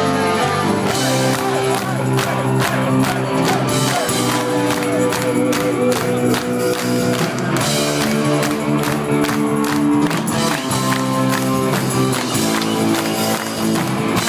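Live rock band playing, with drums keeping a steady beat and sustained guitar or keyboard chords over it.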